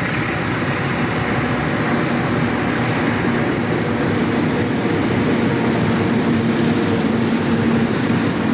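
Diesel locomotives of a freight train running, a steady rumble with a low engine drone underneath.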